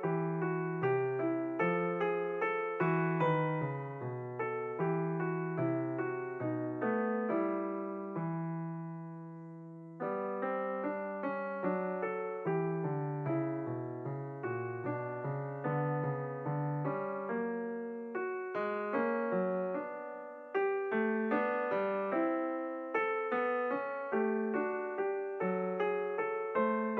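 Background piano music: a steady run of notes, with a held chord fading out a little past a third of the way through before the playing resumes, and a louder passage starting about two-thirds in.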